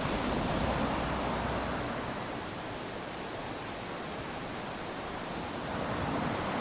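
Small waves lapping onto a sandy beach: a steady wash of surf that swells as a wave comes in at the start, eases off, and swells again near the end.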